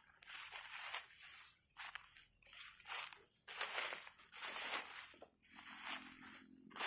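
Footsteps crunching through dry ground litter at a slow walking pace, one crunch every second or so.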